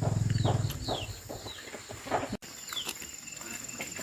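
Short downward-sliding bird calls mixed with scattered clicks. A low steady hum stops under a second in.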